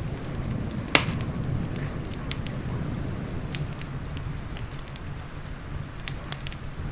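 Wood fire crackling in a fireplace: scattered sharp pops, the loudest about a second in, over a steady low rumble.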